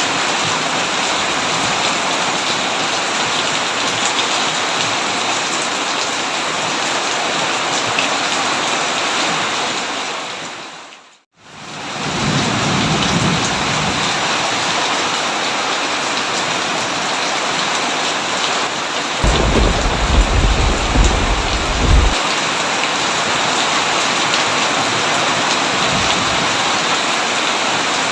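Heavy, steady rain with thunder rumbling low twice: faintly a little after it fades back in, then louder about twenty seconds in. About eleven seconds in, the rain fades out to silence and straight back in again.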